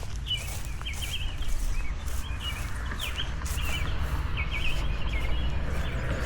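A songbird singing a run of quick chirping phrases over a steady low rumble of wind and distant traffic, with footsteps on pavement.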